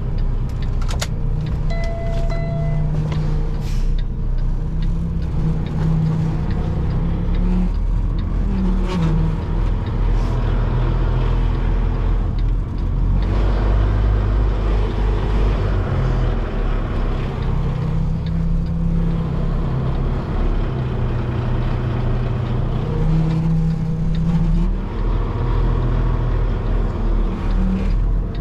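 Semi truck's diesel engine running at low revs while backing up, its pitch rising and falling a little as the throttle is worked. A short beep sounds about two seconds in.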